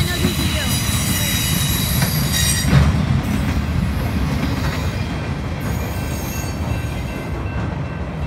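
BNSF freight train of flatcars rolling past with a heavy low rumble. A high-pitched metallic squeal runs over it for the first three seconds and comes back briefly later. The rumble fades as the end of the train goes by.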